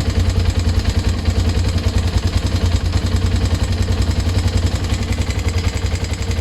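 Engine running steadily with an even, fast pulse, being listened to for a knock; the owner judges that it runs normally.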